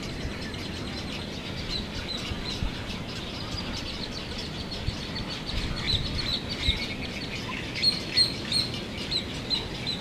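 Many birds chirping: a dense run of short, high chirps, thicker and louder in the second half, over a steady low rumble.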